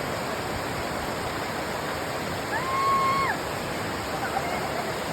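Steady rush of a fast-flowing river. About two and a half seconds in, a short, high, held tone rises above it for under a second.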